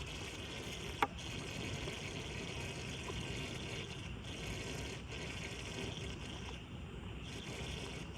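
Floodwater running steadily into a street storm drain, with one sharp click about a second in.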